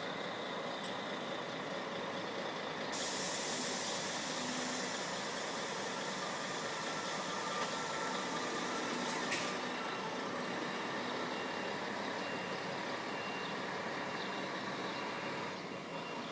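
Diesel coach engine idling steadily, left running while parked rather than switched off. A long hiss of air starts about three seconds in and stops sharply about nine seconds in.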